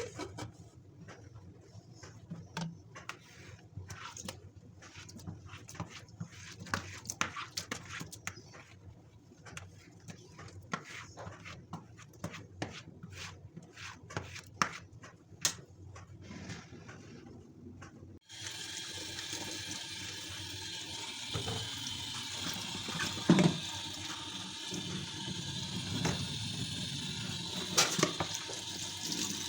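Light clicks and taps of things being handled, then about two-thirds of the way in a tap is turned on and water runs steadily.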